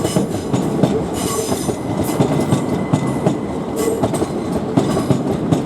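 Electrostar electric multiple units, a Southeastern Class 375 and a Southern Class 377, passing close by, with wheels clicking rapidly over rail joints and points. A thin, steady wheel squeal runs under the clatter.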